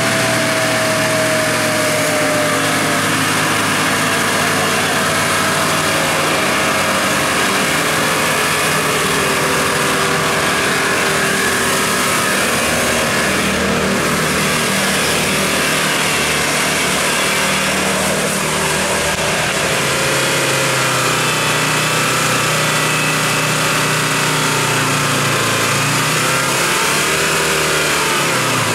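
Land Rover Defender engine running as the 4x4 crawls through mud and grass, its pitch rising and falling with the throttle.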